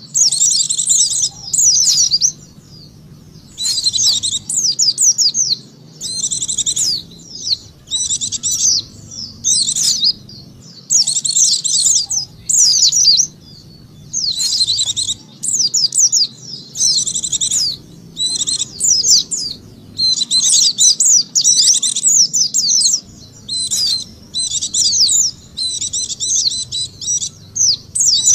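White-eye (pleci) lure song: fast, high twittering chirps in bursts of a second or two, separated by short pauses, over a faint low hum.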